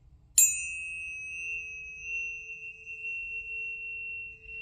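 A tuning fork is struck about half a second in. It gives a bright clink of high overtones that fade within a second, and then one clear high tone rings on steadily.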